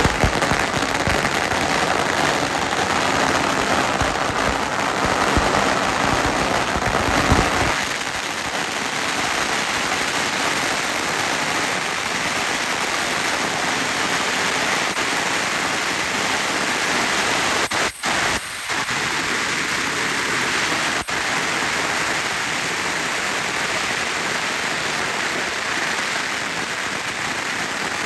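Fireworks crackling densely, a continuous rain-like fizz of many small pops. For the first eight seconds it is louder, with frequent sharp bangs and low thuds. It then settles into a steady crackle, briefly cut off twice past the middle.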